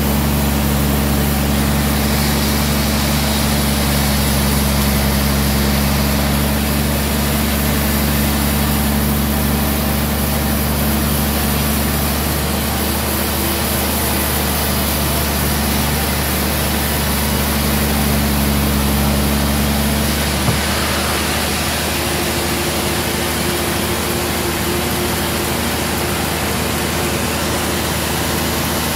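Sawmill band saw machinery running steadily and loudly, a low hum with a hiss over it; about twenty seconds in there is a click and the tone of the hum shifts.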